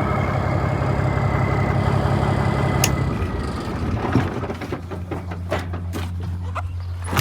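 1996 Freightliner FLD120 semi truck's diesel engine running at raised speed with a high whine, then dropping to a lower, quieter idle about three seconds in as the whine fades. Several light clicks and knocks follow, with a sharp knock at the end.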